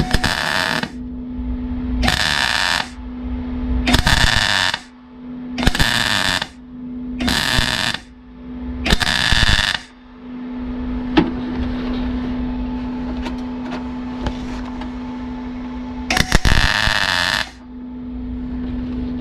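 Welder laying a run of short tack or stitch welds on car body steel: bursts of arc crackle about a second long, six in quick succession, then a pause and one more near the end. The welder's steady hum continues between bursts.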